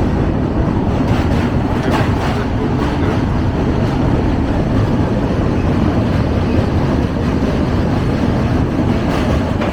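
An express train heard from on board as it runs over a railway river bridge: a steady, loud rumble of wheels on the rails, with a few clattering knocks.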